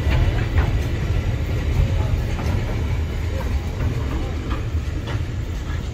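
Freight train wagons rolling past close by: a heavy, continuous low rumble of steel wheels on rail, with scattered clanks and clicks from wheels and couplings.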